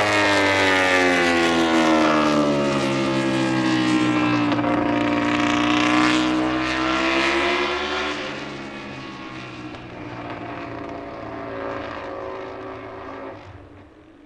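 MotoGP racing motorcycle engine at high revs passing by, its pitch sliding down as it goes away, then fading into the distance over the second half.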